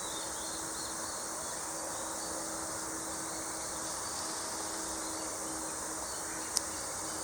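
Steady high-pitched insect drone over the open field, with a single sharp click about six and a half seconds in.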